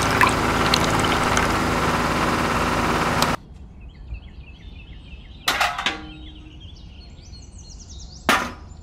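Liquid pouring from a packet into a small metal toy bucket, splashing and fizzing into foam; the sound cuts off suddenly about three seconds in. After that it is much quieter, with faint high chirps and two sharp clicks.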